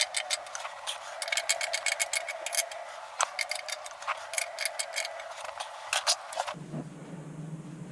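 Rapid mechanical clicking in runs of about five or six clicks a second, broken by pauses and single clicks. It stops abruptly about six and a half seconds in, giving way to a low steady hum.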